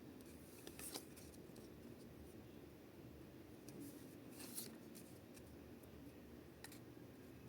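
Faint handling of trading cards and their packs: a few short crinkles and clicks, about a second in, midway and again near the end, over quiet room tone.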